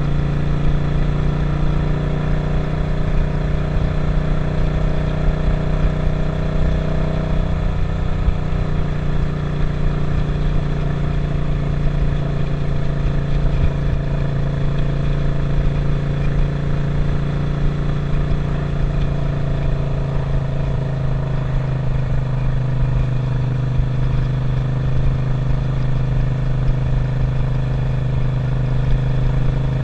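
Suzuki SV650 V-twin engine running steadily while riding, with wind buffeting the microphone. The engine note shifts about a quarter of the way through and drifts again about two-thirds in.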